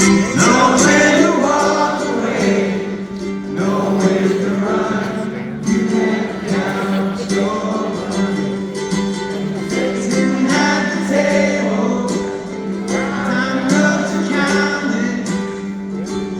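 Live band playing a song with singing, with voices that may include the crowd singing along.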